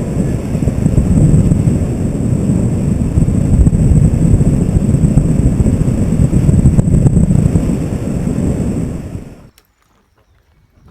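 Wind buffeting a camera microphone during a paraglider flight: a loud, steady low rumble that stops abruptly near the end.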